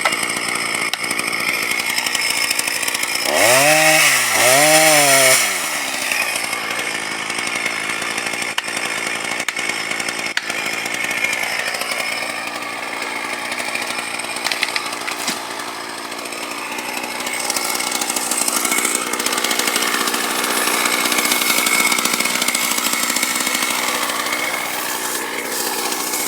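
Chainsaw running steadily, revved up and back down twice in quick succession about four seconds in.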